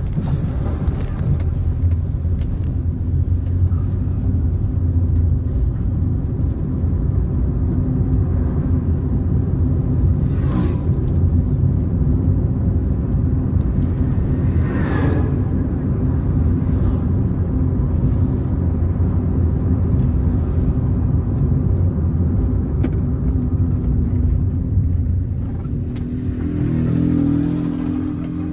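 Car driving along a road: steady engine and road rumble, with two short swells of noise about ten and fifteen seconds in. Near the end the engine note rises.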